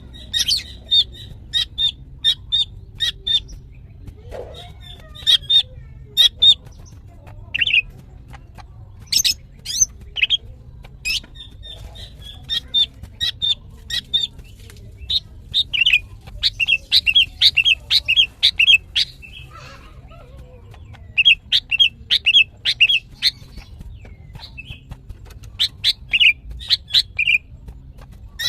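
Female green leafbird (cucak ijo) giving rapid bursts of short, sharp chattering calls, with quick runs of repeated notes in places, typical of a hen in breeding condition calling to males.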